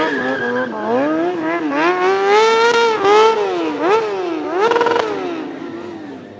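Motorcycle engine revved hard again and again, its pitch swooping up and down with each throttle blip and climbing highest in the middle before dying away near the end.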